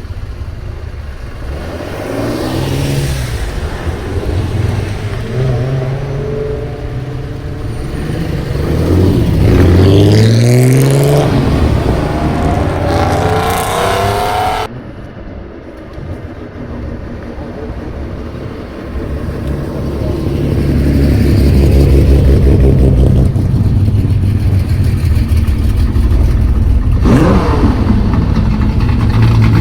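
Loud exhaust of a Hakosuka Nissan Skyline's straight-six being revved repeatedly, the pitch rising and falling with each blip of the throttle. About halfway through the sound cuts abruptly to a steadier, loud engine note with a few more revs.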